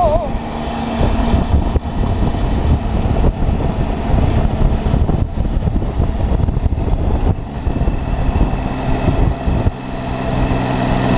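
Triumph three-cylinder motorcycle engine running while the bike is ridden along the road, half buried in a heavy wind rumble on the microphone. Near the end the engine note settles into a steady tone.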